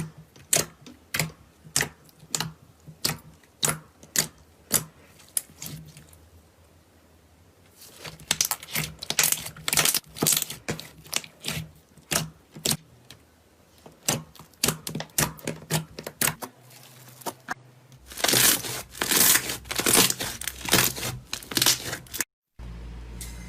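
Slime being pressed and squeezed by hand: sharp pops and clicks about two a second, giving way to denser crackling and crunching that is loudest near the end.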